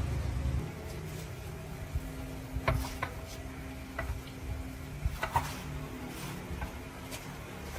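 A low engine rumble fades out in the first second. After that come scattered light metallic clinks and taps, with short ringing, from tools or metal parts being handled, over a faint steady hum.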